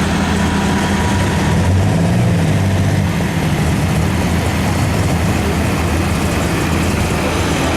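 Heavy pulling-vehicle engine running loudly and steadily, a low drone that holds at one pitch with a brief wobble about two seconds in.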